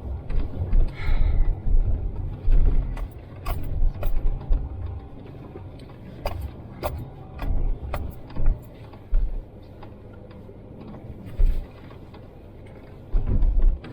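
A 4x4 truck crawling along a snow-covered trail, heard from inside the cab: an uneven low rumble of engine and tyres in the snow, with scattered clicks and knocks as the truck jolts over the trail. The rumble eases off near the end.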